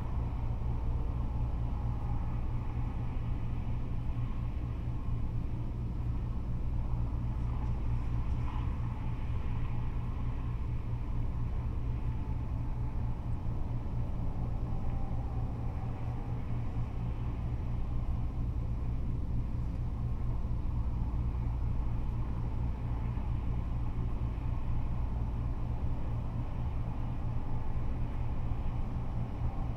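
Freeway traffic, cars and trucks, making a steady low rumble with no single vehicle standing out.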